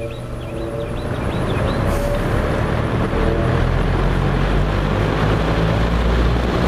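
Mid-1970s Frigid B3300 box fan with metal four-wing blades starting up on high speed: the motor hums as the blades spin up, and the rush of air rises for about the first four seconds, then holds steady at full speed.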